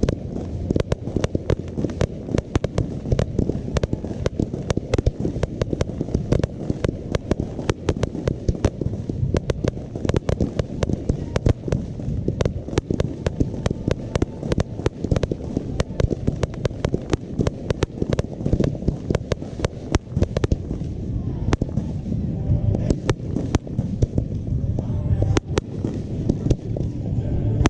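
Aerial fireworks going off in a rapid, unbroken run: many sharp bangs a second over a low rumble.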